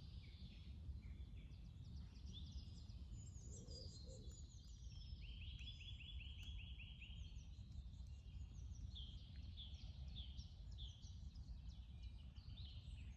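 Songbirds singing: a chorus of short chirps and whistles, with a fast trill about five seconds in, over a faint low rumble.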